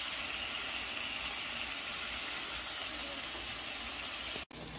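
Chicken breasts with sliced peppers and onions sizzling in a frying pan: a steady hiss that cuts off suddenly near the end.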